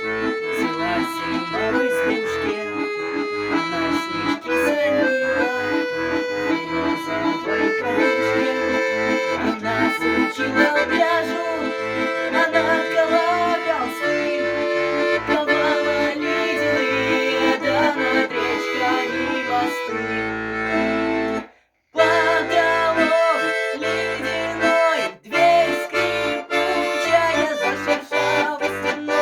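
Accordion playing a melody over an alternating bass-and-chord accompaniment. It breaks off briefly a little past the middle, then plays on.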